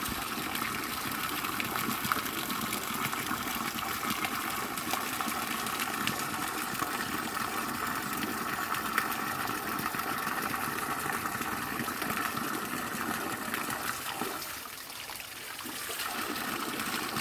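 Waterfall pouring, a steady rush of falling water that softens briefly near the end.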